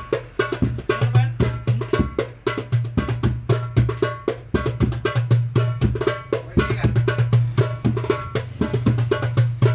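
A 9-inch darbuka with a Remo plastic head played in a fast, dense rhythm: deep ringing doum strokes mixed with sharp, bright tek strokes. The playing stops near the end.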